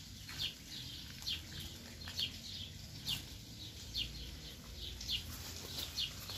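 A bird chirping over and over, one short high call roughly every second.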